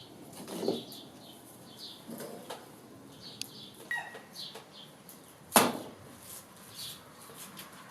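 Rocks being set into wet mud by hand to build a forge wall: scattered soft handling and scraping sounds, with one sharp knock about five and a half seconds in.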